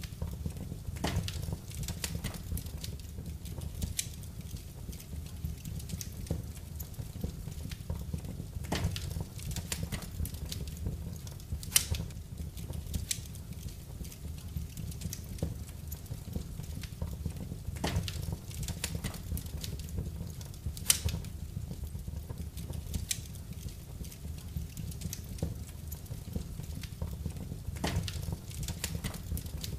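Wood fire crackling in a fireplace: irregular sharp pops and snaps, a couple of them louder, over a steady low rumble of burning.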